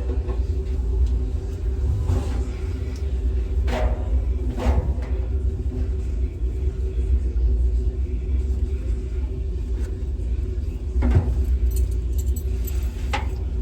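A car heard from inside the cabin: a steady low rumble with a faint steady hum, broken by a few light clicks and rattles.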